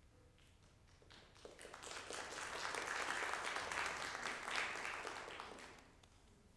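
Congregation applauding, swelling up over a couple of seconds and then dying away.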